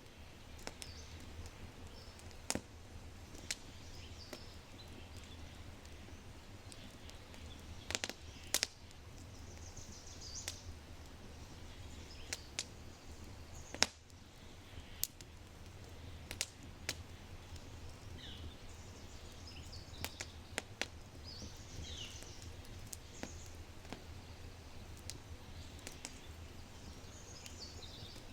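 Oak fire crackling in a brick fireplace, with sharp pops scattered irregularly over a low steady rumble. Birds sing short high phrases several times.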